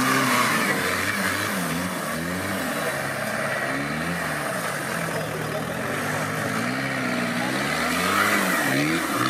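Off-road 4x4 trial vehicle's engine revving up and down several times, its pitch rising and falling every second or two as the throttle is worked.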